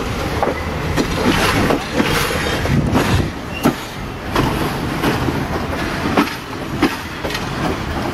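Passenger train rolling slowly out of a station over points and rail joints, its wheels clacking and knocking at irregular intervals over a steady low rumble.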